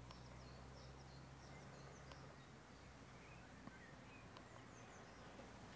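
Near silence: faint outdoor ambience with scattered distant bird chirps over a low steady hum.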